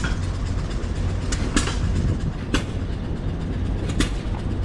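A steady low engine-like rumble, with sharp clicks at uneven intervals of a second or so.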